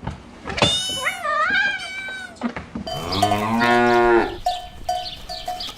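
A cat meows once with a wavering pitch, then about three seconds in a cow moos, a single deep call lasting over a second. Short ringing tones like a cowbell follow near the end.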